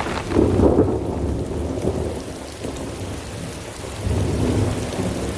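Heavy rain falling, with rolling thunder that swells about half a second in and again around four seconds in.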